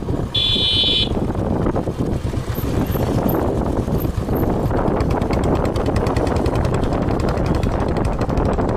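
Motorcycle riding along, a steady rumble with wind buffeting the microphone, and a short horn beep just after the start.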